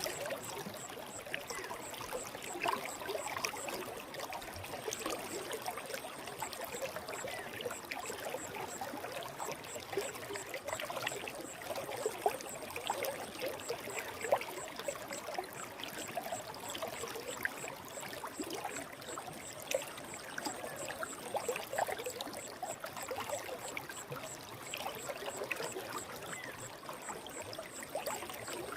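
Forest stream flowing, a steady watery rush with many small gurgles and splashes.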